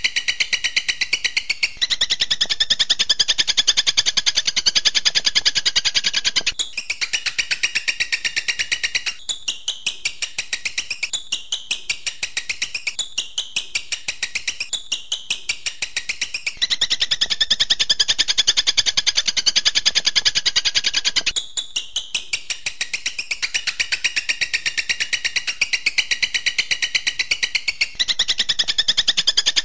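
Recorded songbird song of the kind used as a 'masteran' training track: fast, high-pitched trills that switch every few seconds between a dense, unbroken trill and a run of separate rapid notes.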